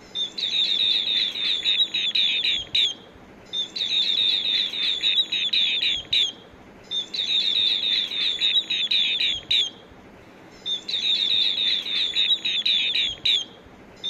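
Green bee-eater calling: four bouts of rapid, high trilled chirps, each lasting about two and a half seconds, with short pauses between them.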